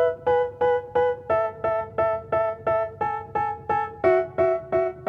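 Background music: a keyboard playing repeated piano-like chords, about three a second, changing chord a few times.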